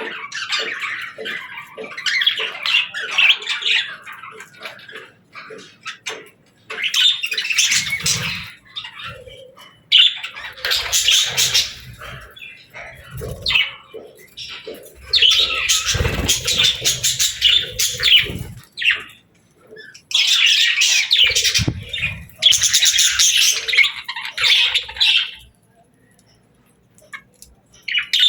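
Budgerigars chattering, chirping and squawking in bouts of a few seconds with short pauses between them, with a few dull low thumps under some of the bouts.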